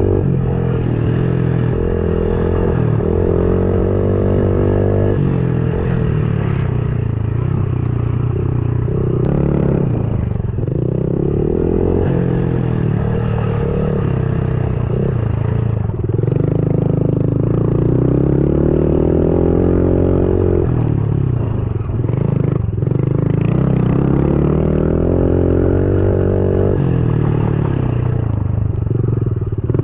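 110cc pit bike engines revving hard on a dirt track, climbing in pitch and dropping back again and again as the gears are shifted, with some clatter.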